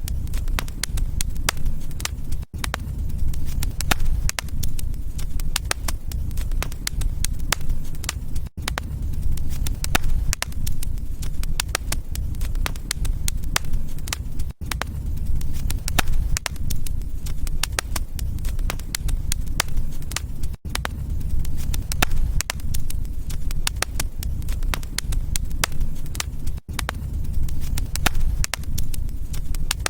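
Wood fire crackling: many sharp pops and snaps over a steady low rumble of flames. The sound drops out briefly about every six seconds.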